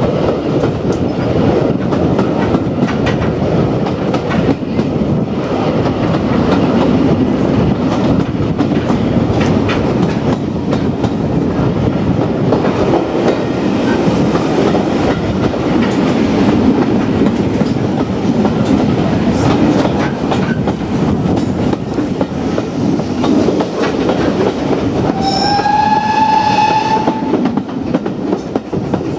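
A train running at speed with a steady rumble and clickety-clack of wheels over rail joints. About 25 seconds in, the steam locomotive's whistle sounds once for about two seconds, rising slightly in pitch.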